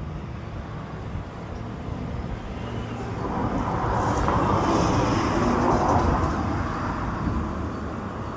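A road vehicle passing by, its noise swelling over a few seconds and then fading, over a steady low background rumble.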